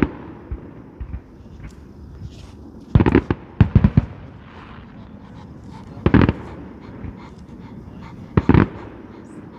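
Fireworks display: shell bursts going off in loud bangs about every three seconds, some in quick clusters of several, with fainter pops between.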